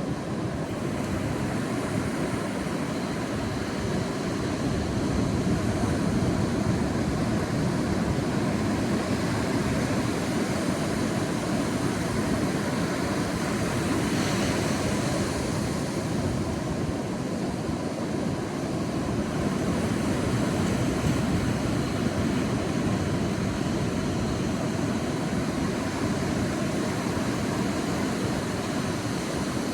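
Sea waves washing on a beach, a steady low surf rumble that swells gently, with a brighter hiss of breaking water about halfway through.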